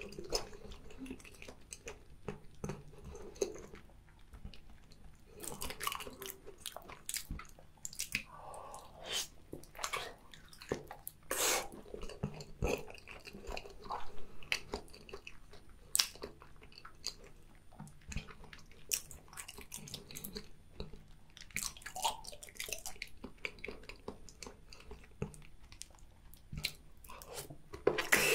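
Close-miked mouth sounds of a person chewing cooked octopus and raw salmon sashimi: irregular wet smacks and clicks. A louder bite comes at the very end as an octopus tentacle goes into the mouth.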